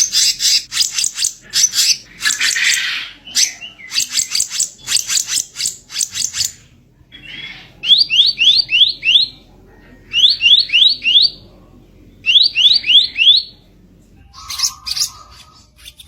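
Kicap ranting singing its harsh song: clusters of fast, rough, scratchy chattering notes, then three runs of four or five quick rising whistled notes, with harsh chatter returning near the end.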